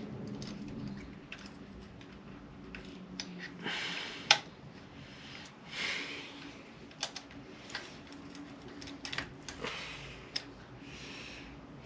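Wiping and handling a grimy RC car chassis with a baby wipe: short swishing rubs come and go, with scattered small plastic clicks and taps, the sharpest click about four seconds in.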